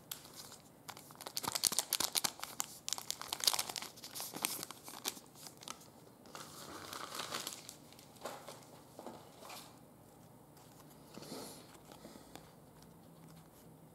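Crinkling and tearing of a trading-card pack wrapper as it is opened, with a dense burst of crackling for the first few seconds and softer, scattered rustling afterward.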